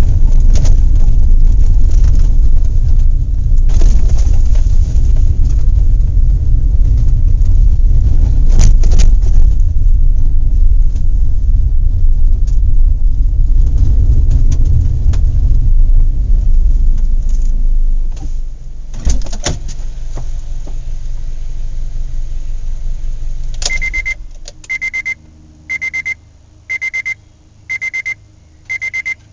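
A vehicle engine running with a heavy low rumble and scattered knocks, dropping away after about eighteen seconds. Near the end an electronic alarm starts beeping at one steady pitch in quick repeated groups.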